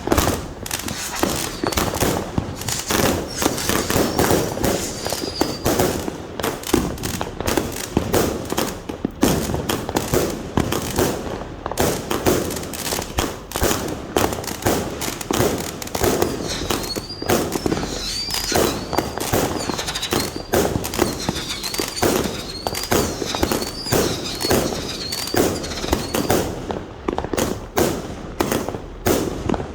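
A 100-shot firework cake firing a rapid, continuous string of shots and bursting reports, several a second without a break. A wavering high whistle rises over the shots a few seconds in and again through the middle stretch.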